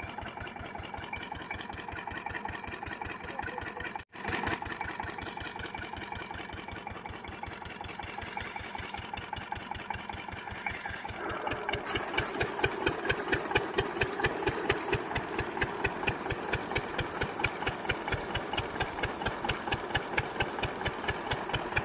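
12 hp diesel engine of an irrigation water pumpset running with a steady, even firing beat. It cuts out for an instant about four seconds in, then grows louder and brighter about halfway through.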